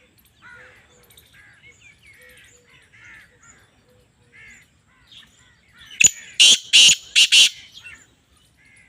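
Black francolin calling: a loud, harsh grating phrase of about four rasping notes in quick succession near the end. Before it, faint chirping of small birds.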